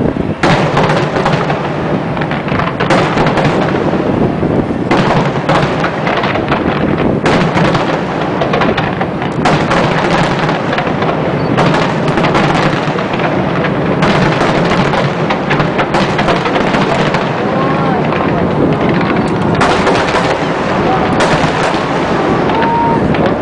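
Fireworks display: a dense, continuous barrage of aerial shell bursts, bang after bang with no pause.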